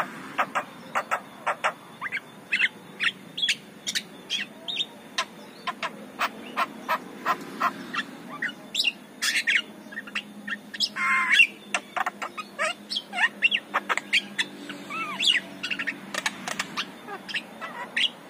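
Javan myna (jalak kebo) singing in full voice, a rapid run of short sharp whistles and chirps, several a second, with a longer harsh rasping note about eleven seconds in.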